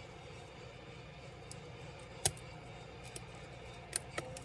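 Scattered sharp clicks and taps of small laptop parts and tools being handled during disassembly, the loudest about two seconds in and a quicker few near the end, over a steady low hum.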